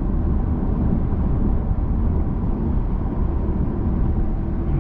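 Steady low rumble of tyre and road noise with light wind hiss inside the cabin of a Genesis G80 sedan cruising at highway speed.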